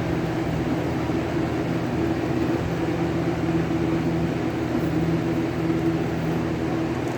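A steady low mechanical hum with a few fixed tones, unchanging throughout.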